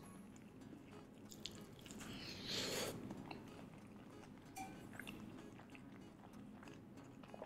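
Close-miked chewing and mouth clicks of someone eating crispy fried chicken coated in crushed Super Ring corn snacks, with one louder crunchy burst about two and a half seconds in.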